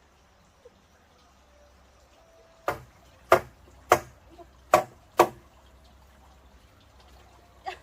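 Chopping with a blade: five sharp strikes about two-thirds of a second apart, then a lighter one near the end.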